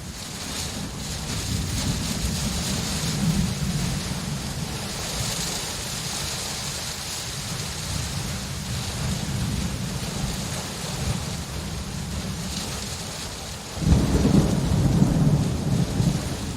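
Steady heavy rain with low rumbling thunder underneath. Near the end a louder roll of thunder breaks in suddenly.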